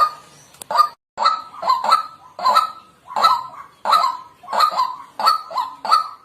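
White-breasted waterhen giving its repeated 'kwak' call, short loud notes about twice a second.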